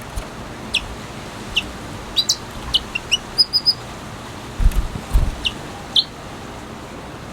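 Red siskin giving short, scattered chirps that sweep downward, with a quick run of three higher notes a little after three seconds in. Two low thumps come about five seconds in.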